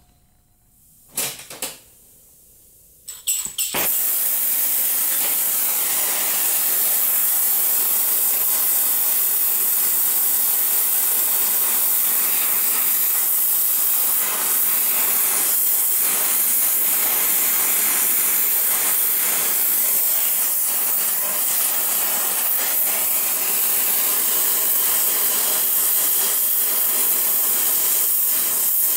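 Oxy-fuel torch being relit, with two brief sharp sounds about one and three seconds in, then a steady loud hiss of the flame as it heats a seized stud in a cast iron exhaust manifold.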